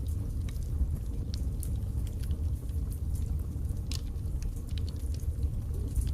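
Wood fire crackling in a fireplace: irregular sharp pops and snaps, one of the clearest about four seconds in, over a steady low rumble of burning.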